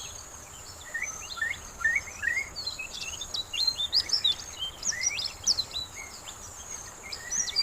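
Birds chirping in many short, quick calls, some as little upward sweeps, over a steady high-pitched insect drone.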